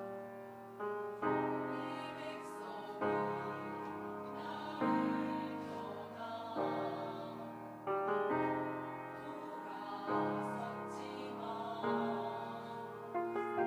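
Piano playing slow block chords, a new chord struck about every one and a half to two seconds and left to ring out, as the introduction to a church choir anthem.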